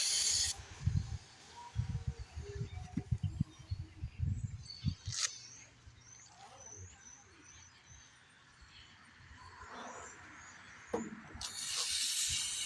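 Aerosol carburetor cleaner sprayed onto small-engine carburetor parts: a hiss that stops about half a second in, then a second, longer hiss near the end. Between the sprays, light knocks and clicks of small parts being handled.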